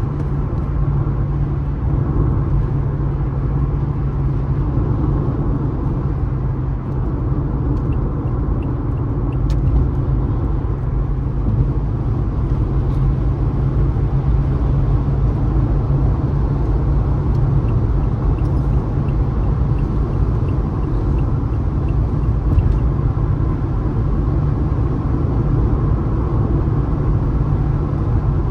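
Steady low rumble of a car driving at highway speed: engine and tyre road noise.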